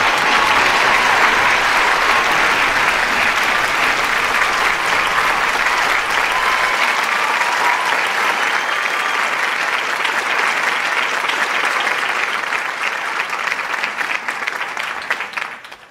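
Studio audience applauding, a dense steady clatter of clapping with a few voices calling out over it, that thins and then dies away quickly near the end.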